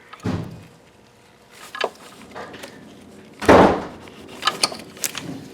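Metal parts and hand tools being handled while fitting an engine mount and alternator bracket: a few knocks and clinks, with one louder clunk about three and a half seconds in and sharp metallic clicks near the end.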